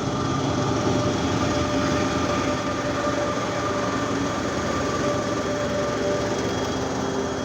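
A freight train hauled by a TGM6A diesel-hydraulic shunting locomotive running by: a steady rumble with a few steady droning tones over it.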